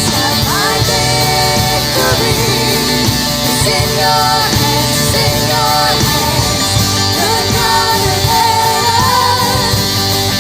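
Christian worship song, sung over a full band accompaniment, playing steadily without a break.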